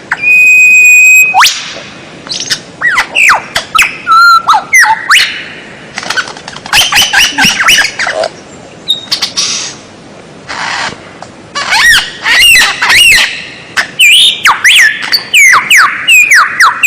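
Songbird singing a rapid, varied song of sweeping whistles, sharp squawks and chips. It opens with one loud held whistle about a second long. This is a masteran recording of bird song played to tutor kept songbirds.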